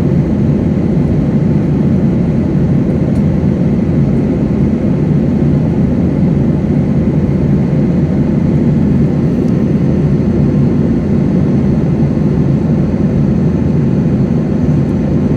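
Steady cabin noise of a Boeing 737-800 airliner in flight: the even low rumble of airflow and its CFM56-7B jet engines, unchanging throughout.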